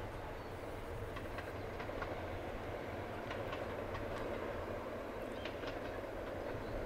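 Distant passenger train running along the line: a steady rumble with light clicks of wheels over the rail joints.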